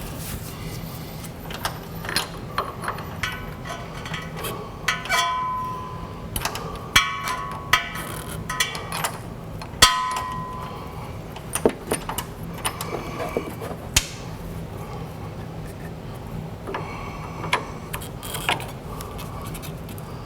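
Metal tools and parts clinking and clanking irregularly, with several short ringing metallic clangs, over a steady low hum.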